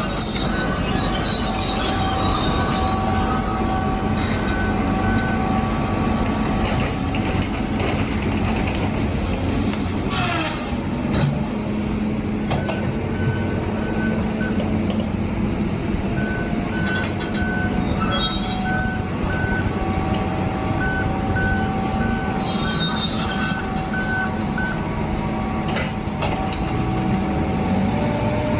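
Heavy logging equipment running steadily under load, with a reversing alarm beeping in a rapid regular pattern for the first few seconds and again through much of the second half.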